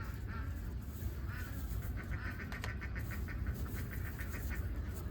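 Flock of domestic laying ducks quacking, many calls overlapping in a rapid chatter through the middle, over a steady low rumble.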